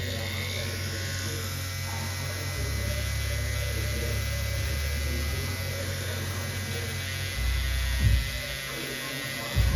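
Electric tattoo machine buzzing steadily as it works, with a couple of short thumps near the end.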